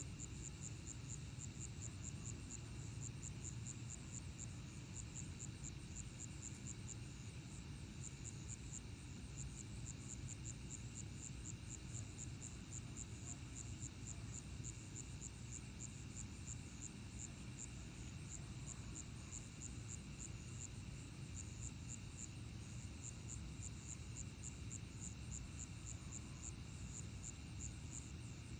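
Night insect chorus of crickets and other insects: a high pulsing chirp repeating steadily over several continuous trilling tones, with a low even hum underneath.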